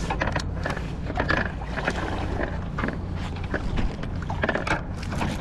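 Irregular splashes, knocks and clatter as a large blue catfish thrashes in a landing net and is brought aboard a boat, over a steady low hum.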